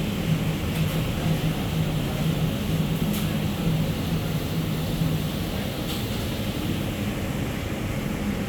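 Steady mechanical running noise: an even rushing sound with a low wavering hum beneath it, and a couple of faint ticks.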